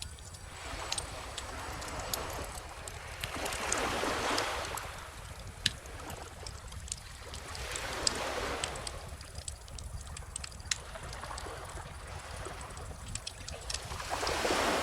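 Bonfire crackling, with frequent sharp pops, over small ocean waves washing ashore in slow swells every four to six seconds. A steady low rumble runs underneath.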